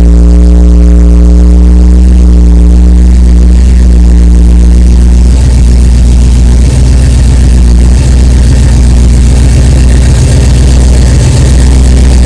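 The 1985 Oldsmobile Delta 88's engine running steadily through its exhaust at idle. The tone shifts about a third of the way in to a rougher, lower rumble.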